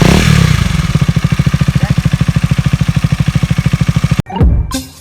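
KTM Duke 250 single-cylinder engine idling through an exhaust with its DB killer removed: a loud, evenly pulsing note with a quick throttle blip at the start. The engine sound cuts off suddenly about four seconds in, followed by a short knock.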